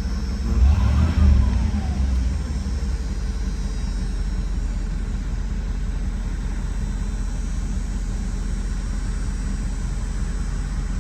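Car engine idling high and a little boggy. Its speed rises and falls briefly about a second in, then it settles to a steady idle. All sensors have been replaced and there are no trouble codes, yet the idle stays high.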